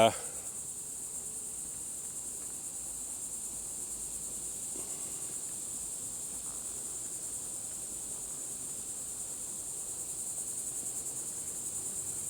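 A steady, high-pitched chorus of insects trilling, with an even, fast pulse and no break.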